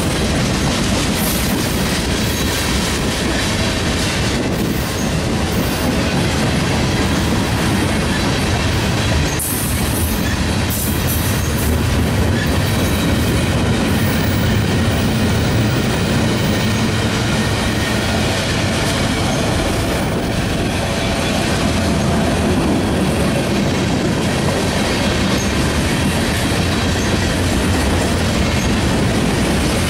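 Freight train cars rolling past close by: a steady rumble of steel wheels on rail with clickety-clack over the rail joints. Brief high wheel squeals come about nine to eleven seconds in.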